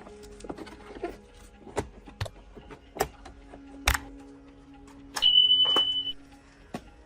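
Sharp clicks and knocks of small tools and parts being handled on an old electric fan under repair, then a single steady high-pitched beep lasting about a second, a little past halfway.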